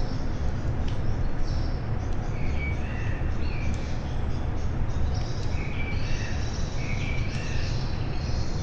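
Several small songbirds calling and chirping, with short gliding notes and higher twitters repeated through the evening chorus. A steady low outdoor rumble and hiss sit underneath.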